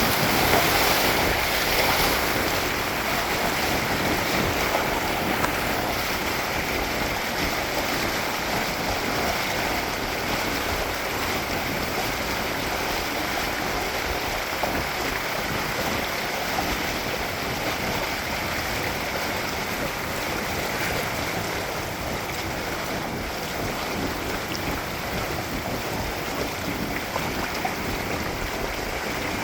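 Water rushing along the hulls of a Windrider 17 trimaran sailing fast, with wind buffeting the microphone; a steady hiss that stays even.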